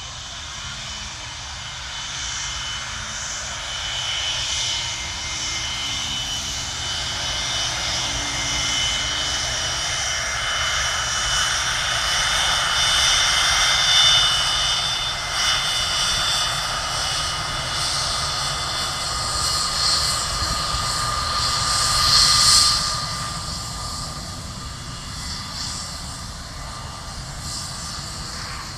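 Boeing 727's three Pratt & Whitney JT8D turbofans at high power: a loud jet noise with a high whine that builds, peaks about halfway through and again about three-quarters through, then fades.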